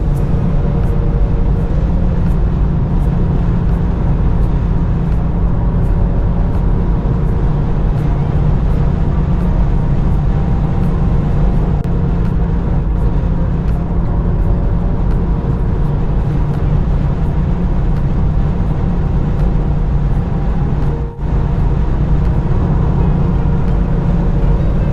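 Stock 2021 Subaru WRX STI's turbocharged flat-four engine running steadily under way, a deep rumble. The sound drops briefly once, about three-quarters of the way through.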